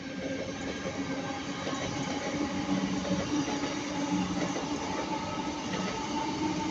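A pair of Class 323 electric multiple units passing close by: wheels running on the rails with a steady electric hum over it, growing a little louder over the first few seconds.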